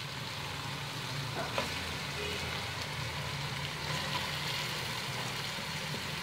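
Chicken pieces and ginger-garlic paste sizzling in hot oil in a steel pot: a steady frying hiss, with a couple of faint clicks.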